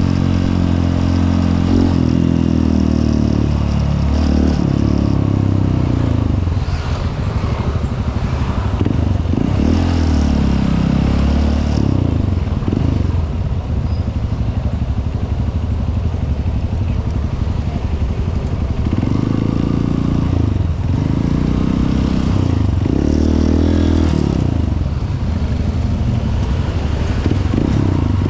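Honda CRF150L's single-cylinder four-stroke engine running under way, its revs climbing and then dropping again and again as the gears are changed.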